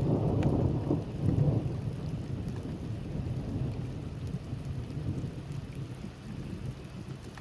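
Thunder rumbling over steady rain: the rumble is loudest in the first two seconds, then slowly dies away while the rain keeps up a steady hiss with scattered drops.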